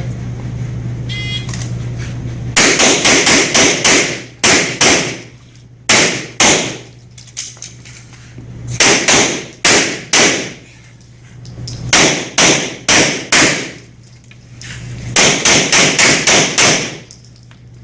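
Pistol shots fired in fast strings, several shots a fraction of a second apart in each string, with short pauses between the strings.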